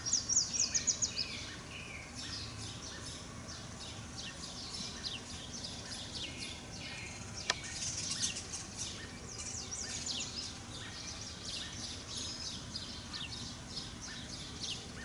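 Birds chirping and calling outdoors: many short, high calls throughout, opening with a quick run of about eight notes. A single sharp click about halfway through.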